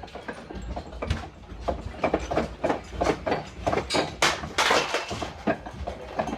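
Things rattling and knocking irregularly as a building shakes in an earthquake, over a low rumble, with a louder burst of clattering about four and a half seconds in.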